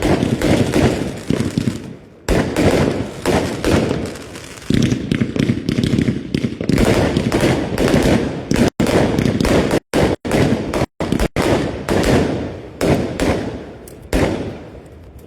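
Fireworks barrage: a rapid, dense run of bangs and crackles, thinning out near the end. The sound cuts out completely for short moments a few times in the middle.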